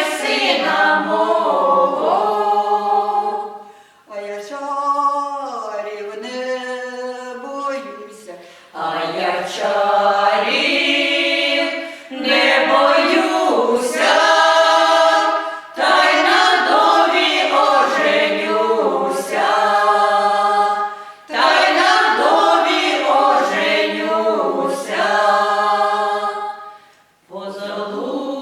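Folk vocal ensemble singing a Ukrainian folk song a cappella in several voices, in long phrases broken by short breaths. About four seconds in the singing thins and drops in level for a few seconds before the full group comes back.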